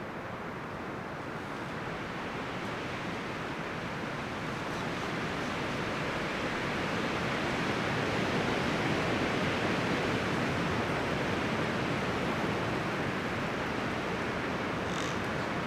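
Wind blowing through forest trees, a steady rush of rustling leaves and branches that swells gradually over the first several seconds and then holds.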